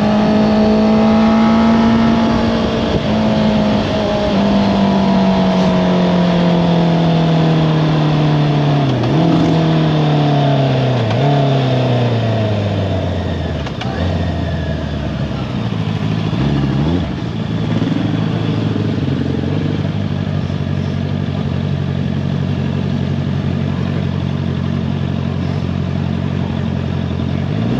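Honda CBR650R inline-four with an Akrapovič exhaust, its pitch falling steadily as the bike slows, broken by several downshifts in the middle where the revs dip and jump back up. It then runs steadily at low revs, with a quick rise in revs near the end.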